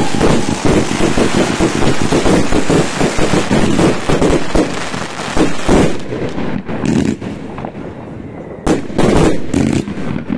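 Fireworks going off: a dense run of rapid crackling bangs for about six seconds, then thinning out to scattered separate bangs, with a few louder bangs near the end.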